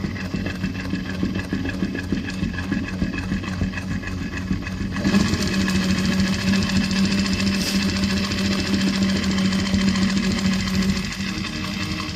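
Long-arm patching sewing machine running, its needle stitching in a rapid steady patter. About five seconds in it gets louder, with a steady low motor tone, then eases back near the end.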